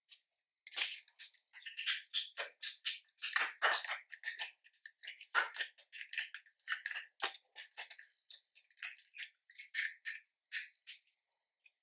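Store-bought slime being mixed and squished, giving a dense, irregular run of sticky crackles, clicks and little air pops.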